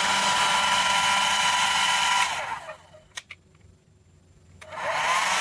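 1800 W hair dryer blowing with a steady airy hiss and fan whine. About two seconds in it is switched to a lower setting, so the fan winds down and the hiss mostly drops away. After a click it speeds back up near the end.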